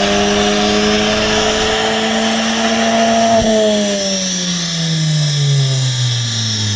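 Car engine on a chassis dyno revving steadily higher under load, then the throttle is lifted about three and a half seconds in and the revs fall away smoothly.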